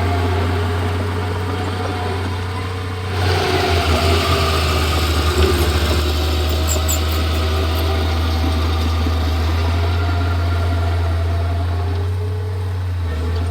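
Komatsu D31P bulldozer's diesel engine running steadily with a deep, even hum. About three seconds in, a louder, noisier clatter joins it for a few seconds, with a few sharp ticks, then it settles back to the steady run.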